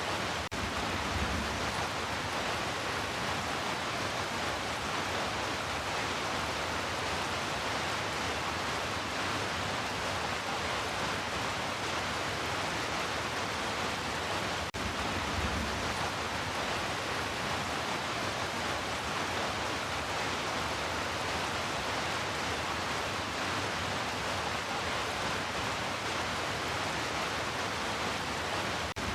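Heavy rain falling in a steady, even hiss, with a brief low rumble swelling about a second in and again near halfway.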